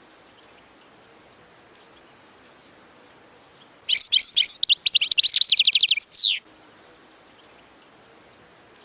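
European goldfinch singing one short phrase about four seconds in, lasting some two and a half seconds: a few quick twittering notes, then a fast even trill, ending on a falling note.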